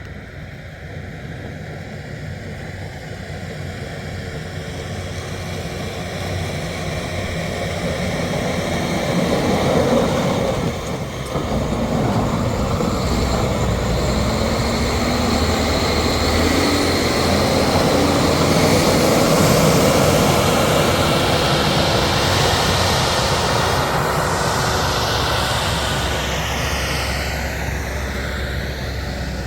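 A passing engine: a steady rumble that grows louder over about ten seconds, holds, and eases off slightly near the end as it goes by.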